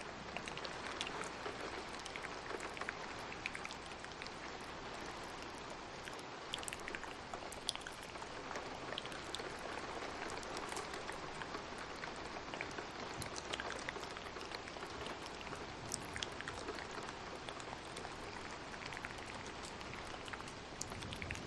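Steady rain falling, with scattered sharp little clicks and pops throughout.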